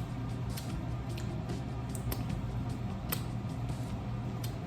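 Blue crab shells being cracked and picked apart by hand, a series of small sharp cracks and clicks spaced irregularly, over a steady low hum.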